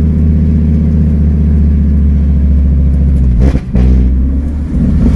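Fiat Marea HLX's five-cylinder engine running loud with no exhaust fitted, a steady low drone from inside the car. The revs dip briefly and pick up again about three and a half seconds in.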